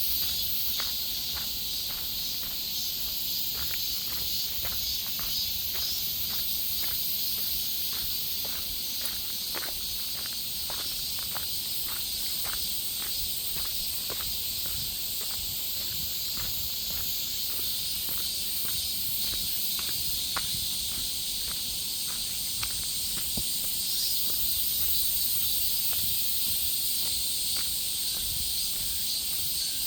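Steady, high-pitched insect chorus in a forest, with footsteps at a walking pace, a little under two steps a second.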